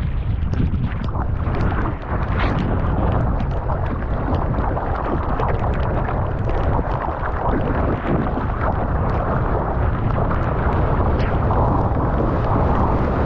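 Strong wind buffeting a GoPro's microphone in a heavy, steady rumble, with sea water sloshing and many small sharp clicks scattered through it.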